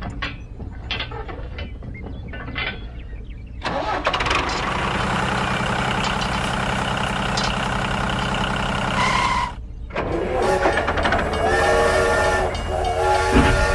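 Machine sound effects: a few clicks over a low rumble, then an engine running steadily for about six seconds. It is cut off by a short beep, and a train horn follows in held blasts.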